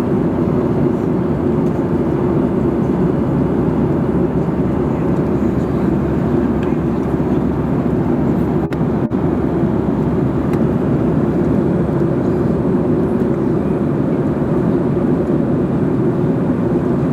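Steady airliner cabin noise in flight, the constant engine and airflow noise heard from inside the passenger cabin. It dips twice, very briefly, about halfway through.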